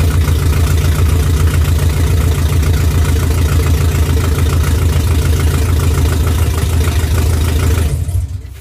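Freshly swapped GM L92 6.2-litre V8 in a 2008 Chevrolet Avalanche idling steadily on its first start, not yet tuned. Near the end it shuts off and the sound dies away.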